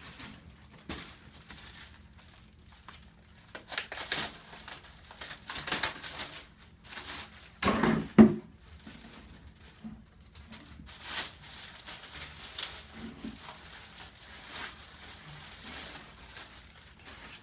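Packaging crinkling and rustling, with scattered clicks and knocks, as the parts of a Eureka Compact vacuum cleaner are handled and fitted together; one louder knock comes about eight seconds in.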